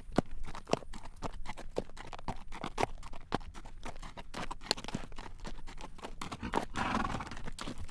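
Horse's hooves clip-clopping at a walk on a road as it draws a carriage: an even run of sharp clacks. A short rushing noise rises and fades near the end.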